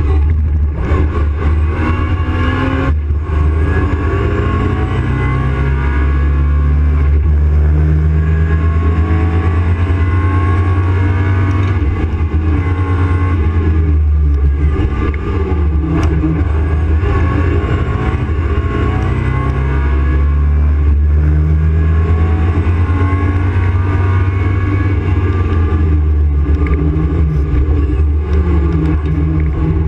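Opel Kadett C race car's engine driven hard, its pitch climbing through the revs and dropping again over and over as the driver shifts gears and lifts between corners. Heard from inside the stripped, roll-caged cabin.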